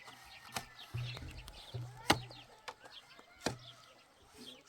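Three sharp knocks, the middle one the loudest, over many faint, quick bird chirps.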